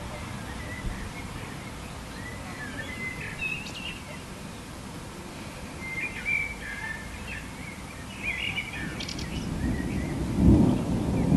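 Birds chirping and calling in short scattered phrases over a low rumble. About ten seconds in, a roll of thunder swells up and is still growing at the end.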